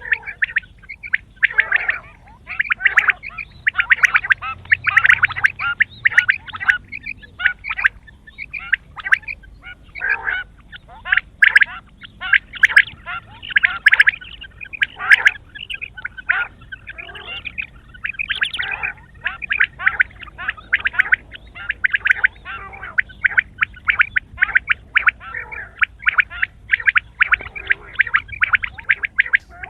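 Quail calling: rapid runs of short, sharp notes repeated almost without pause.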